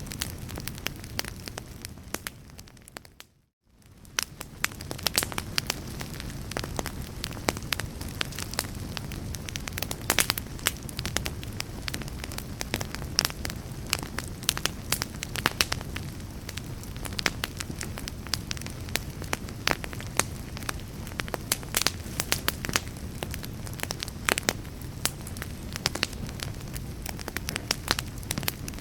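Wood fire in a fireplace crackling and popping, with many sharp snaps over a low steady rumble. About three seconds in it fades briefly to near silence, then fades back up.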